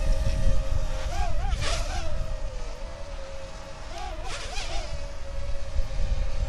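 Parrot Mambo mini drone's propellers buzzing in flight, a high steady whine that wavers in pitch twice as the motors speed up and slow down, with wind rumbling on the microphone.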